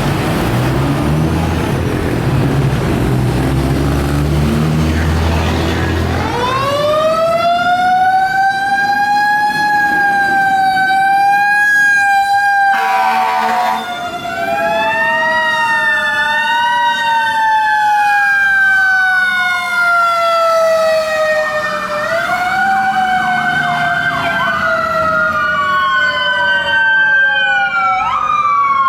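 Fire apparatus responding: a heavy truck engine rumbles. About six seconds in, a fire truck siren winds up and wails, slowly rising and falling in pitch. A short air-horn blast comes about halfway, and a second siren joins with overlapping wails and quick yelps through the second half.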